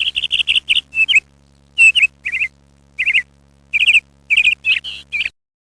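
A bird chirping loudly: a quick run of short chirps at first, then groups of two or three with pauses between. The sound cuts off suddenly about five seconds in, with a faint steady hum underneath until then.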